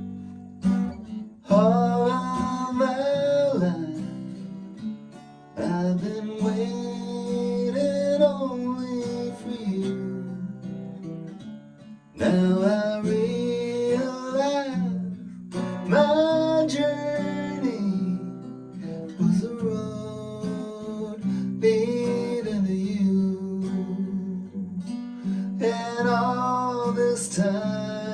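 Acoustic guitar playing a song's introduction, strummed and plucked in a series of phrases, with a wavering melody line above the chords.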